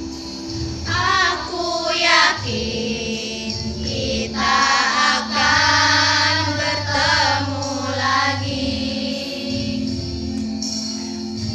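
Children's school choir singing a song in unison over a musical accompaniment, the voices loudest in the middle of the stretch and easing off near the end.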